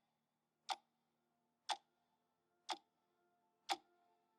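Four sharp, evenly spaced ticks, about one a second, like a clock ticking, over a few faint held tones.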